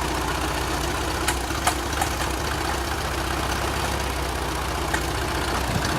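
Farmall Cub's four-cylinder flathead engine idling steadily, with a few sharp pops scattered through the running. The popping is the fault the owner is asking about, and its cause is unknown.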